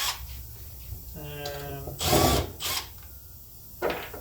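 Cordless drill-driver triggered briefly, a short motor whine of about half a second, followed by a few sharp clanks of tools and metal parts being handled.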